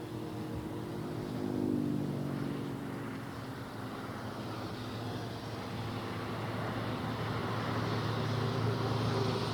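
A vehicle engine running steadily, with a rushing noise that grows louder in the second half.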